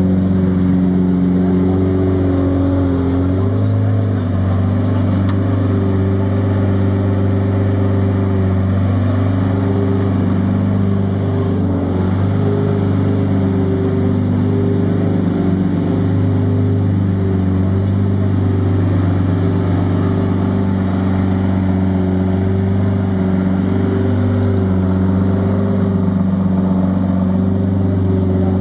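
Lamborghini Murciélago LP 670-4 SV's V12 engine idling steadily with a deep, even exhaust note.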